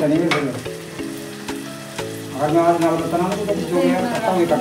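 Food sizzling in a pot on a gas stove, under a background song: held tones, a voice about halfway through, and a clicking beat about twice a second.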